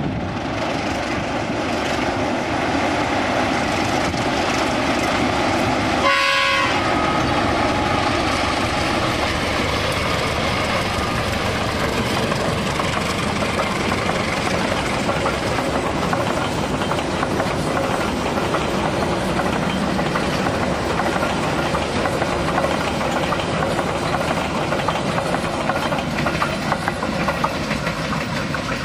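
Sribilah Premium diesel-hauled passenger train running past close by, a steady loud noise of the locomotive and coaches' wheels on the rails. A short horn blast sounds about six seconds in.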